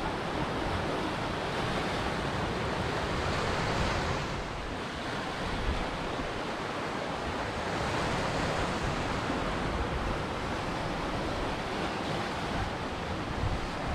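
Ocean surf: waves washing in a continuous rush that eases briefly about five seconds in and then swells again.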